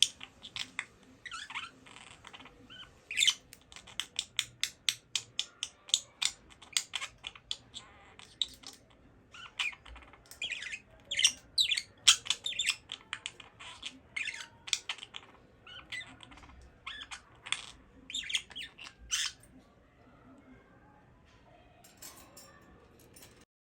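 Budgerigar chirping and chattering: a fast run of short, high chirps and squawks that thins out and goes quiet about twenty seconds in.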